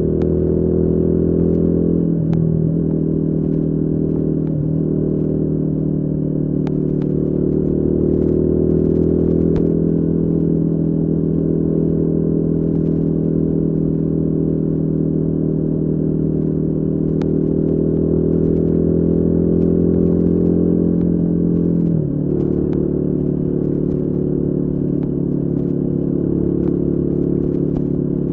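Royal Enfield Guerrilla 450's single-cylinder engine running steadily. Its pitch drops briefly about 2, 5 and 22 seconds in, and creeps up slowly in the middle.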